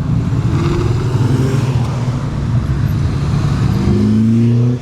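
A car engine running loud and close, rising in pitch near the end as it accelerates, then cutting off suddenly.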